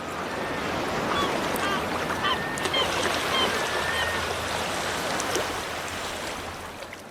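Short chirping bird calls over a steady rush of noise. The sound fades in at the start and fades out near the end.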